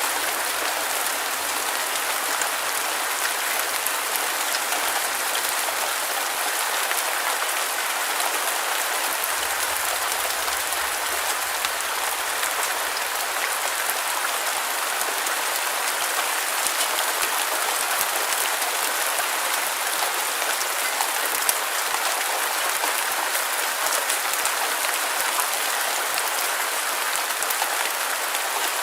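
Steady rain falling as white noise: an even hiss with dense fine patter of drops, no thunder or low rumble.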